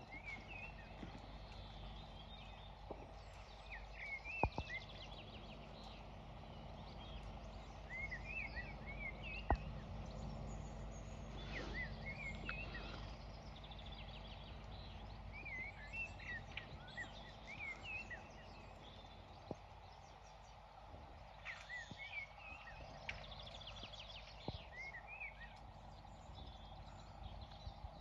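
Small birds chirping in short, repeated phrases over a low, steady outdoor rumble, with a few faint, scattered knocks.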